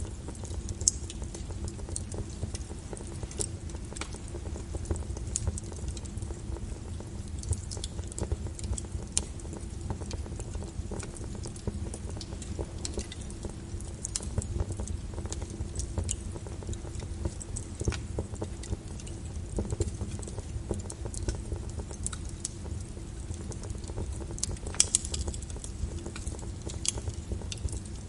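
Wood fire burning in a fireplace: steady low rumble with frequent irregular sharp crackles and pops, a few louder pops about a second in and near the end.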